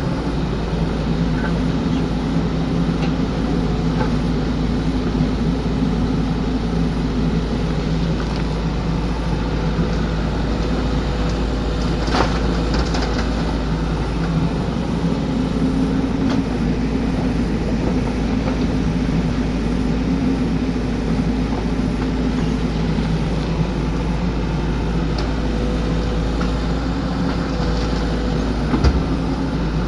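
XCMG excavator's diesel engine running steadily, with a sharp knock about twelve seconds in and a thump near the end.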